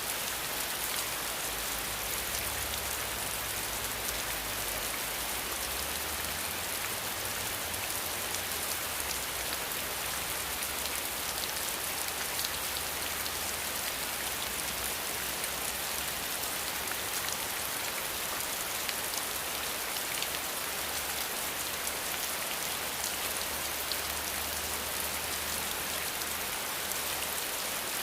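Steady rain falling: a dense, even hiss of many small drops on a surface, with fine patters throughout. A faint low rumble comes and goes underneath.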